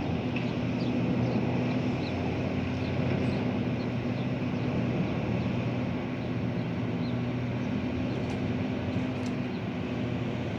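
Diesel engine of a heavy construction machine running steadily, a constant low hum. Faint short high chirps sound through the first half.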